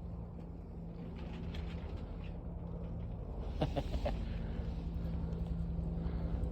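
Akita dog whining briefly in a few short notes a little past halfway, over a steady low hum.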